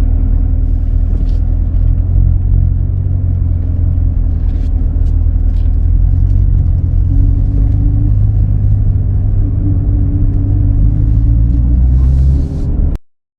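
Chevrolet Corvette C7's V8 through its NPP dual-mode performance exhaust, a deep steady rumble at an even cruise with no hard revving. It cuts off suddenly near the end.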